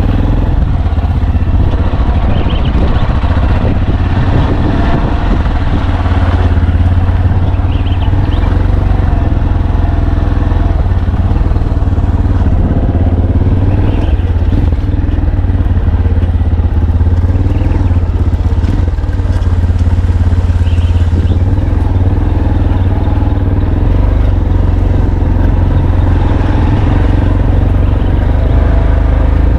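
A vehicle's engine running steadily while driving, a constant low drone with road noise.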